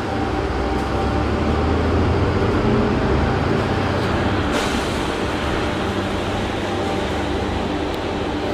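Interior of a moving city transit bus: steady engine and road rumble, deeper and stronger for the first four seconds or so, then easing.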